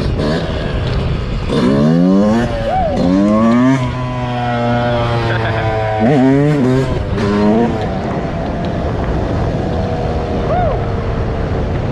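Dirt bike engine accelerating through the gears: the revs climb and drop back several times, then settle into a steady run with the pitch easing slowly down near the end.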